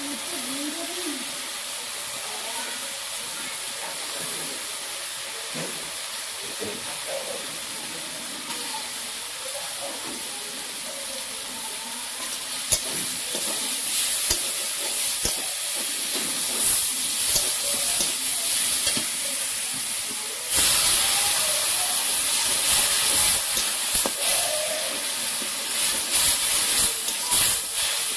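Catfish pieces frying in hot oil in a steel kadai over a wood fire, sizzling steadily with occasional clicks of the ladle against the pan. About twenty seconds in, the sizzle jumps suddenly louder as the masala goes into the hot oil.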